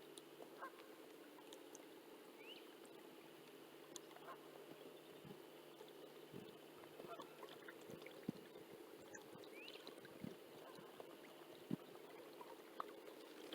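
Near-quiet lakeside ambience: a faint steady hum, scattered small clicks and knocks, and two short rising bird calls, one early and one about ten seconds in.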